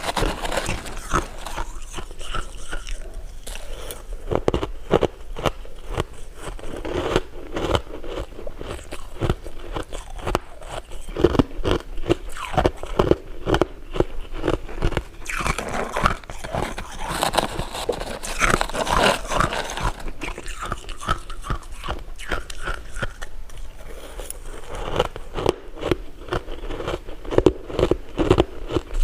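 Close-miked eating: repeated bites and chewing with crisp crunches and crackles, coming irregularly several times a second.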